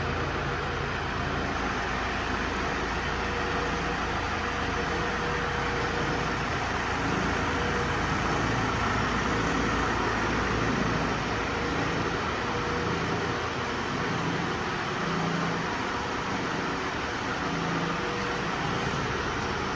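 Ford Transit van's 2.0-litre EcoBlue diesel engine running steadily at idle.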